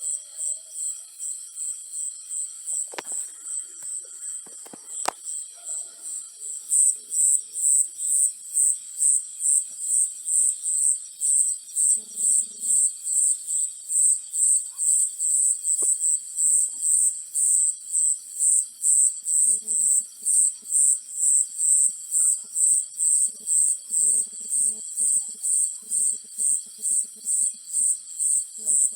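Cricket chirping in a steady, high-pitched rhythm of about two to three chirps a second, growing louder about a quarter of the way in. Two sharp clicks come early on, and faint low rattling calls come in now and then.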